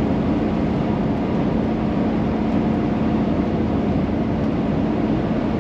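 Volkswagen Vanagon driving uphill at about 40 mph, heard from inside the cabin: steady engine and road noise. The four-cylinder engine is in its recurring fault state, not firing on all four cylinders, which the owner suspects is something electrical getting wet.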